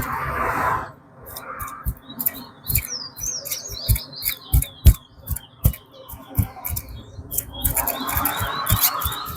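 Towa-towa seed finches singing in quick chirping, warbling phrases, busiest around the middle and again near the end. Sharp clicks and knocks sound between the phrases.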